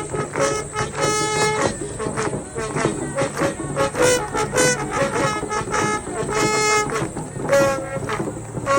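Mapuche ceremonial dance music: kultrun drums beating while a horn-like wind instrument sounds short, brassy blasts, one after another.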